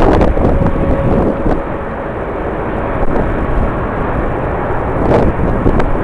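Rumble of a jet airliner's engines mixed with strong wind buffeting the microphone, in surges near the start and about five seconds in.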